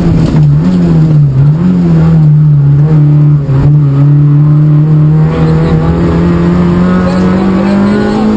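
Peugeot 106 Rally N2 car's four-cylinder engine, heard from inside the cabin at rally pace. The engine note dips twice in the first second and a half, then holds and climbs slowly.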